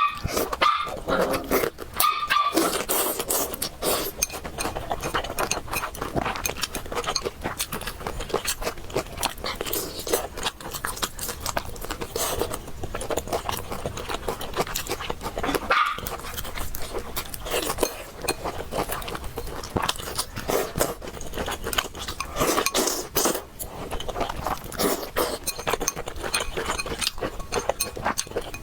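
Close-miked mukbang eating sounds of spicy noodles: a steady run of slurping, chewing and small clicks, with a few brief higher-pitched squeaky sounds near the start and again about two-thirds of the way in.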